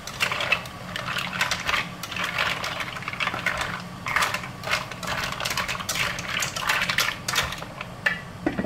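Mussel shells clattering against each other and the wok as they are stirred and tossed with a slotted spatula, in quick, irregular clicks and scrapes.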